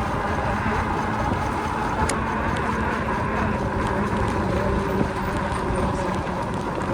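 Steady riding noise from an e-bike on the move: wind and rolling noise with a faint steady hum.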